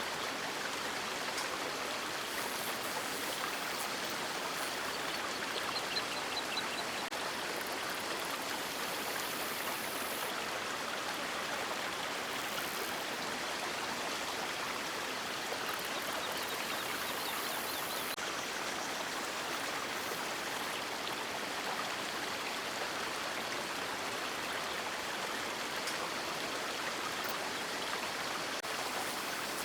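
River water flowing over rocks, a steady, even rush.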